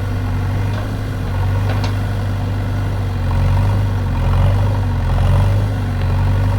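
Heavy diesel engine running steadily at low speed, swelling slightly a few times.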